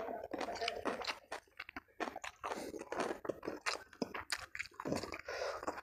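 Close-miked chewing of a mouthful of shredded chicken: a rapid, irregular run of short sharp mouth clicks and crunches.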